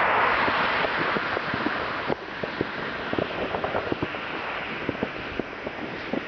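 Fireworks: a loud hiss that drops off about two seconds in, then a scatter of many quick crackling pops.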